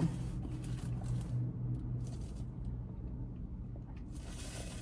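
Quiet eating: faint chewing and food-handling noises over a steady low hum, with a brief rustle about four seconds in.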